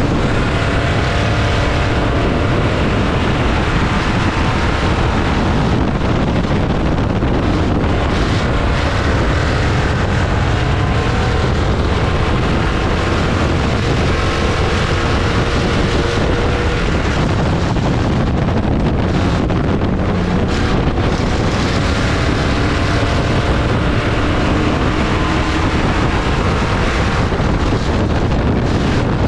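Dirt-track race car engine running hard at speed, its pitch rising and falling a little, under heavy wind noise on the microphone.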